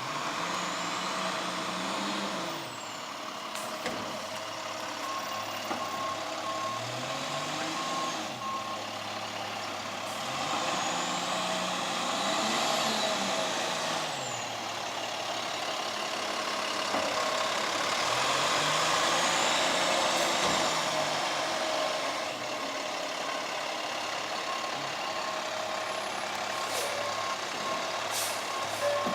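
Diesel International WorkStar garbage truck working: its engine revs up and back down three times. A backup alarm beeps in a steady rhythm partway through and again near the end.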